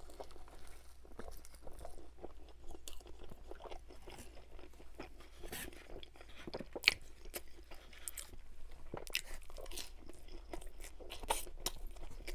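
Close-up mouth sounds of chewing and crunching a battered chicken ball: irregular crisp crackles and wet chewing, with one sharper click about seven seconds in.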